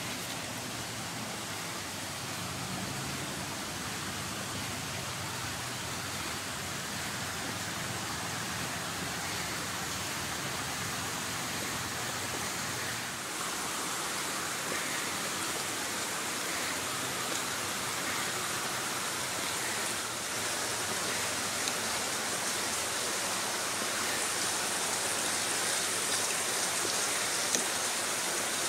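Steady rushing of flowing water, getting a little louder and brighter about halfway through.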